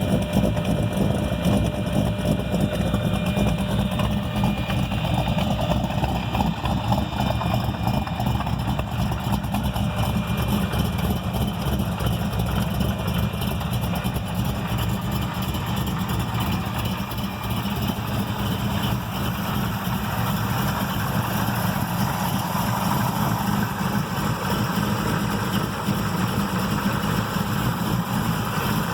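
Built 406 cubic-inch V8 with a Comp Cams 292 Magnum camshaft idling steadily with a very rough, lopey idle, the choppy exhaust note of a big-duration cam.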